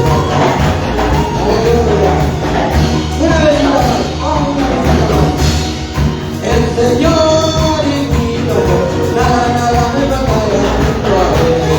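Lively Latin American-style worship band music with a sung melody over a continuous bass and beat.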